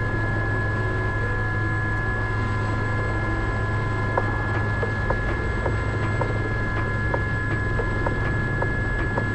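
Aérospatiale Gazelle helicopter in flight, heard from inside the cabin: a steady low drone from the rotor and turboshaft with a constant high whine over it. Light clicks come about twice a second from about four seconds in.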